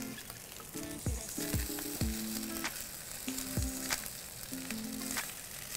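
Fried rice and shrimp sizzling in a hot cast-iron skillet while being stirred and turned with metal tongs. Background music with a regular beat plays underneath.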